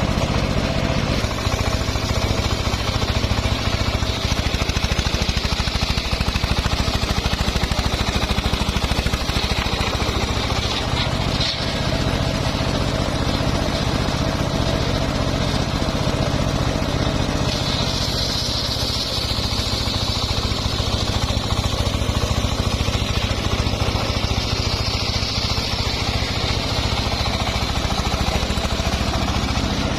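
Engine of a home-built circular sawmill running steadily under load, with the saw blade's higher whine growing louder twice in the second half as it cuts mahogany.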